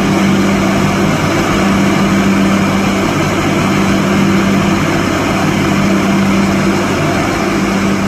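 Borewell drilling rig running loudly and steadily, with a low hum that cuts out and returns every second or two.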